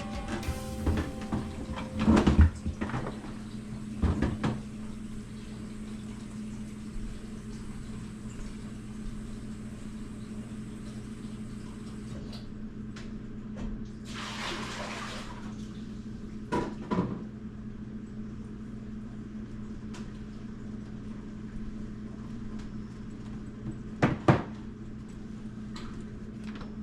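Plastic storage bins and food packages being handled and set into a refrigerator freezer: scattered clunks and knocks, with a brief rustle of packaging about two-thirds of the way through, over a steady low hum.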